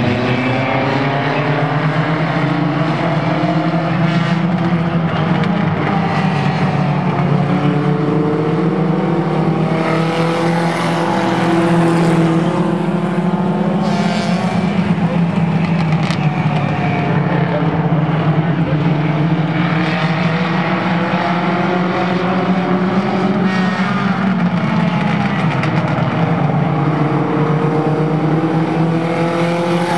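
Race car engines running hard, their pitch repeatedly rising and falling as the cars accelerate and lift off.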